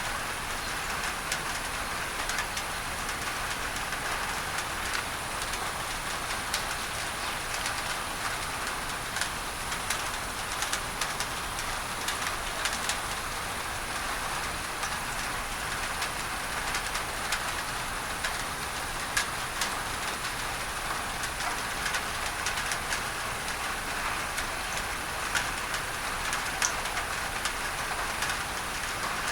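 Steady rain on a tin roof, with many sharp individual drop hits, blended with an even masking hiss of pink noise.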